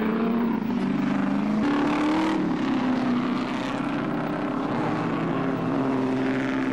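Engines of pre-war racing cars running past together, several engine notes overlapping; one rises in pitch about two seconds in, then drops back.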